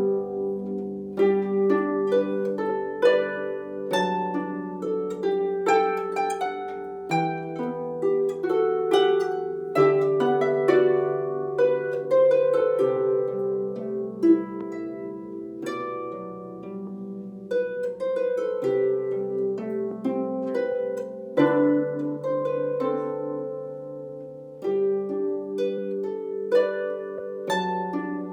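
A harp being played: a melody of plucked notes ringing over deeper bass notes that change every couple of seconds.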